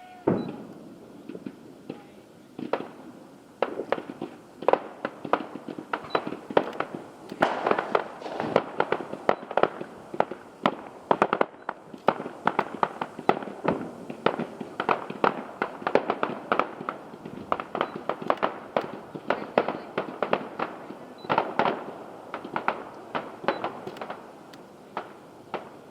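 Aerial fireworks display: a rapid, irregular barrage of bangs, opening with one sudden loud bang, growing densest in the middle and bunching again near the end.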